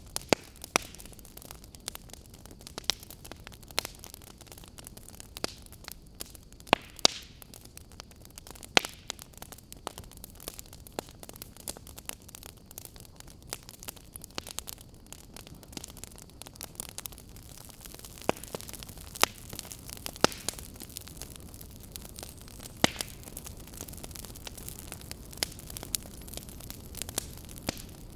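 Wood fire burning with a steady low hiss and irregular crackles and pops, a few of them sharp and loud.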